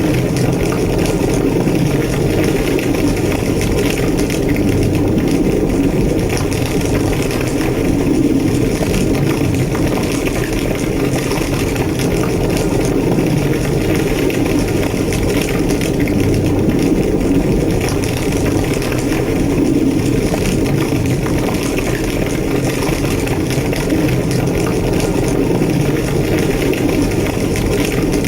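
A large burning building's fire roaring steadily, a deep, even rumble with constant small crackles and pops through it.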